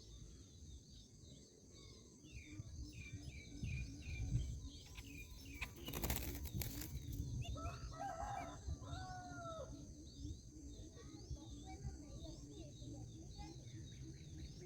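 Small birds chirping repeatedly in short high notes, with a brief loud rustling burst about six seconds in, like wings fluttering at the nest. A couple of seconds later come two longer, lower calls that rise and fall.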